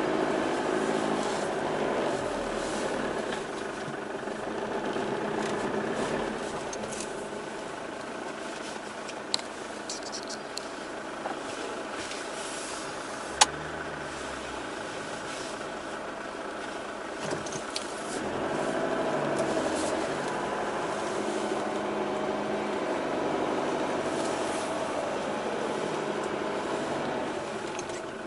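Off-road 4x4's engine heard from inside the cab while driving over sand dunes, its drone rising and easing with the load, with scattered rattles and a sharp knock about halfway through.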